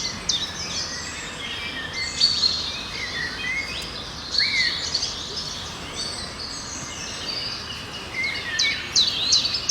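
Several small birds chirping and calling, with short high notes coming quickly, thickest near the start and again near the end, and a brief up-and-down whistle about halfway through, over a steady background hiss.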